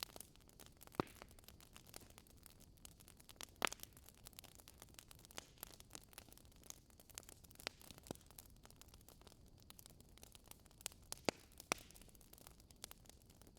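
Wood fire of a Swedish fire log crackling: faint hiss with irregular sharp pops and snaps, a few of them much louder than the rest.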